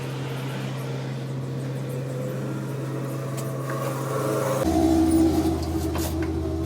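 A machine motor hums steadily. About four and a half seconds in, it shifts to a lower, slightly louder hum.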